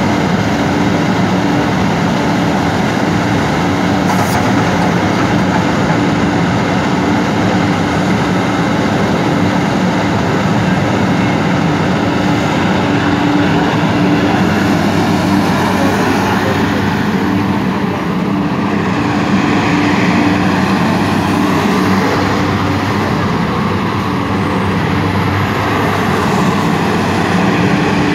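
MST M300 excavator's diesel engine running steadily under work.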